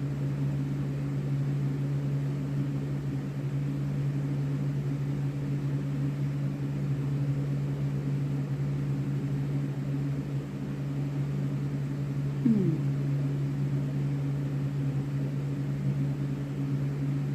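Steady low hum of a running machine or appliance, with a brief falling tone about twelve seconds in.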